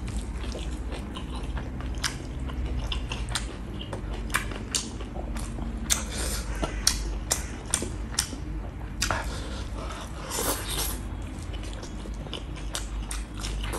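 Close-miked eating sounds: a man chewing a mouthful of rice and cooked mustard greens with his lips closed, with wet mouth clicks and smacks, and one longer wet sound about ten seconds in.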